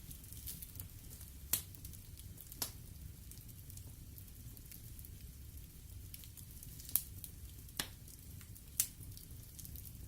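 Wood fire crackling in a fireplace: scattered sharp pops and snaps, five of them louder than the rest, over a low steady rumble.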